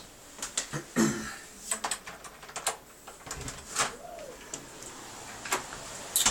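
Irregular clicks and knocks with a couple of dull thumps, from a handheld camera being carried and things being handled while moving about.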